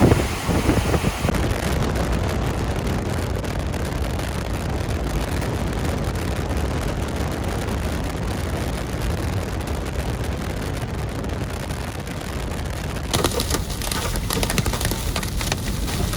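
Strong thunderstorm wind rushing and buffeting, a steady low roar. About thirteen seconds in, a rapid patter of hailstones starts striking a vehicle.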